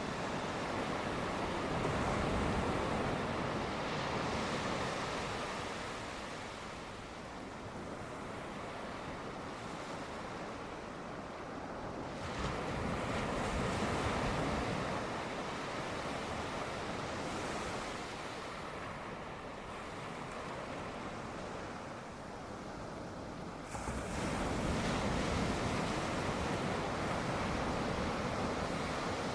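Sea waves breaking on a shore, the wash swelling and ebbing, with a fresh breaker surging in about halfway through and another, more abruptly, later on.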